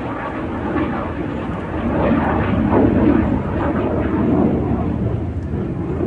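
Military aircraft flying over: a steady wash of engine noise that grows louder about two seconds in and eases slightly near the end.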